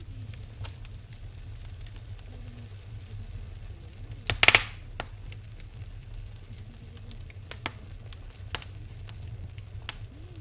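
Wood fire in a fireplace crackling: scattered sharp pops over a steady low rumble, with one louder burst of crackling about four and a half seconds in.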